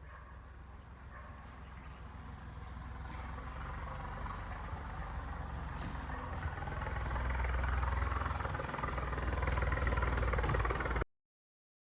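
A motor engine running, growing steadily louder, then cutting off abruptly about eleven seconds in.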